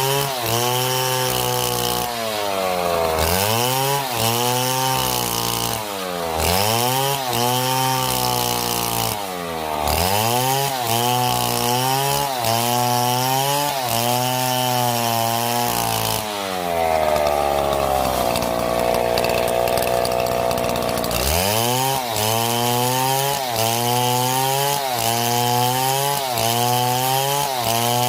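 Two-stroke chainsaw cutting into a palm trunk, its engine note sagging under load and climbing back every second or two. Past the middle it holds a steady high pitch for about four seconds, then goes back to the rising and falling cuts.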